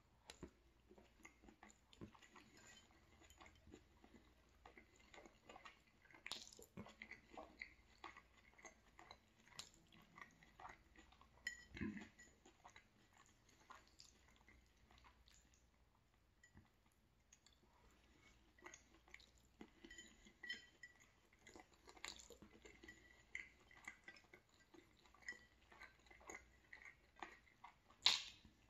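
Quiet chewing of sausage rigatoni, with small wet mouth sounds and light clicks of a fork against the plate.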